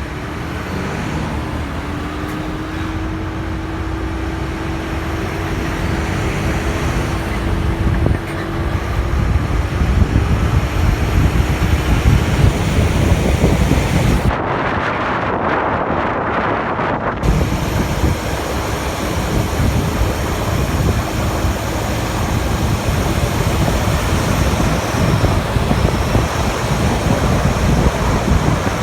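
Wind buffeting the microphone of a moving motorcycle, with the bike's engine and road noise running beneath. The wind noise grows louder over the first ten seconds as the bike gathers speed.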